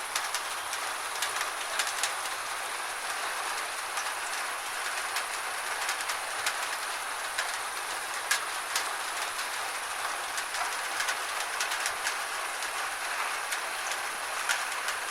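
Gentle rain falling steadily as an even hiss, with scattered individual drops ticking sharply and irregularly against a nearby surface.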